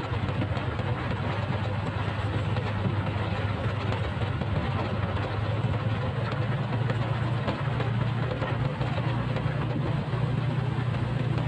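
Motorcycle engine running at a steady pitch, with a constant rushing hiss over it.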